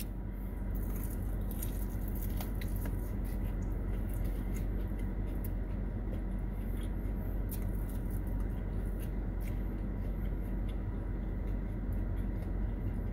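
Close-up chewing and mouth sounds of someone eating a fried crab cake, with scattered small wet clicks, over a steady low hum.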